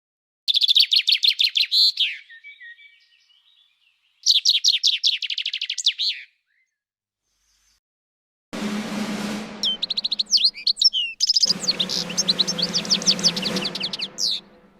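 A small songbird singing phrases of fast, evenly repeated high notes, with a pause of a couple of seconds between phrases. Beneath the later phrases, from a little past halfway, runs a steady rushing noise with a low hum.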